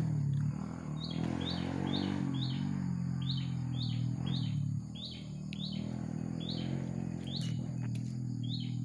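A small bird calling a short, high chirp over and over, about twice a second, starting about a second in, over a steady low hum.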